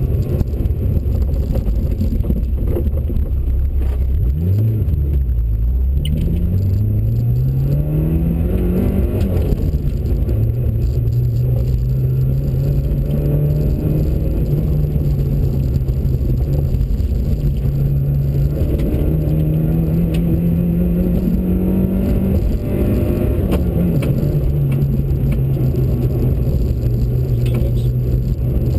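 Peugeot 106 XSi's four-cylinder engine heard from inside the cabin, driven hard on a rally test. The engine note rises through the revs and drops at gear changes; it dips and climbs steeply about a sixth of the way in, then rises again and drops about a third of the way in and again about three quarters through.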